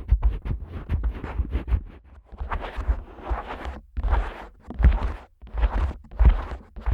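Fingers rubbing, scratching and tapping on the outer ears of a Neumann KU100 dummy-head microphone: quick scratchy strokes and clicks over dull low thumps, with a few longer rubbing passes.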